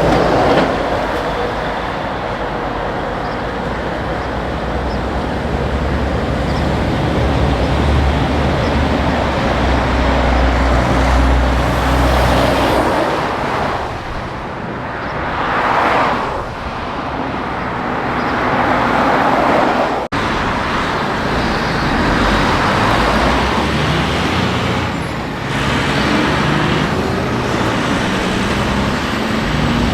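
Heavy trucks and other highway traffic passing, with diesel engine rumble and tyre noise. There is a brief cut-out about two-thirds of the way through, and near the end an engine's pitch rises steadily as a vehicle accelerates away.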